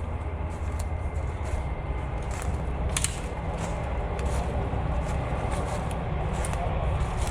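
Heavy truck engine idling steadily, with scattered small snaps and crunches over it.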